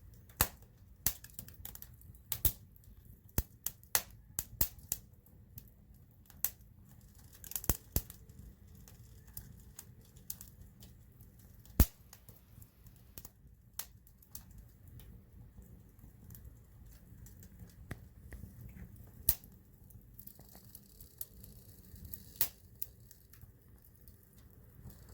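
Campfire wood crackling and popping: irregular sharp snaps, thick in the first several seconds and sparser later, the loudest about twelve seconds in, over a low steady rumble. A faint high hiss joins near the end.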